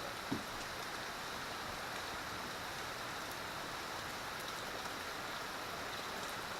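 Rain falling steadily, an even hiss of rain on the ground and surfaces, with one brief knock a third of a second in.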